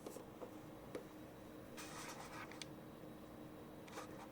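Faint handling sounds of a sewing-machine bobbin being positioned by hand: a few light clicks and short scratches, over a faint steady hum.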